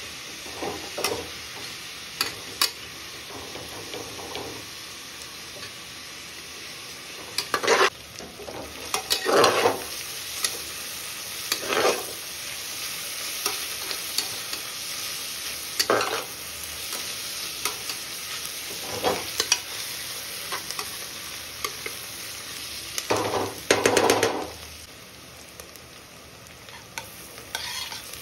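Food frying in hot oil and ghee in a pressure cooker with a steady sizzle, while a spatula stirs and scrapes the pan in separate strokes every few seconds, the longest stroke near the end.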